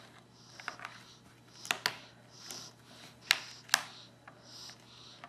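A toddler's fork tapping and clicking against his bowl and high-chair tray: four sharp taps, in two close pairs about a second and a half apart, with a few soft hisses between.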